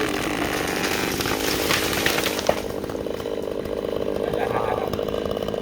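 Chainsaw running while the felled tree comes down: a noisy crackling rush through the first couple of seconds and a sharp thump about two and a half seconds in. After that the saw runs on steadily at a lower level.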